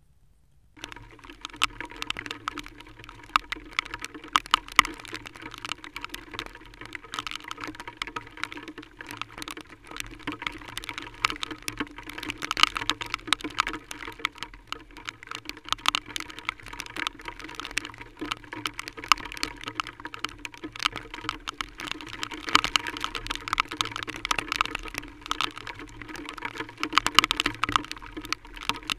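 Heavy rain: a dense, irregular tapping of raindrops striking close by. It begins suddenly about a second in.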